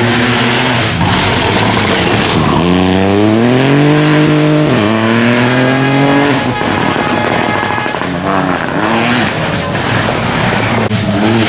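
Rally car engine revving hard, its pitch climbing through the gears with a shift about four and a half seconds in, then lifting off about halfway through. Shorter bursts of revving follow later.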